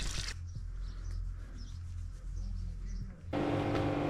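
A quiet stretch of steady low hum with a few faint bird chirps, then, about three seconds in, an engine comes in abruptly and runs steadily at an even pitch.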